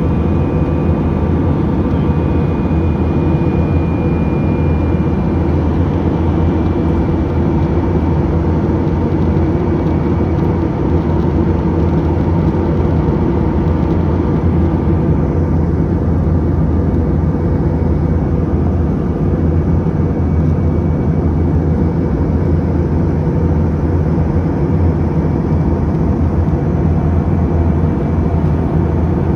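Airliner cabin noise: a steady, dense low drone of engines and airflow with a few steady hum tones. A faint high whine fades away over the first several seconds.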